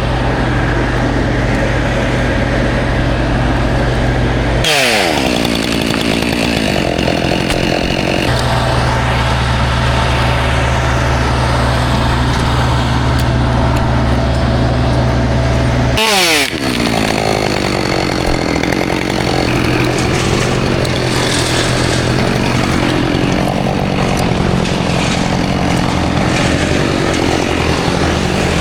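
Chainsaw running and cutting pine, its engine dropping sharply from high revs twice, about five seconds in and again near the middle, over a steady lower engine hum.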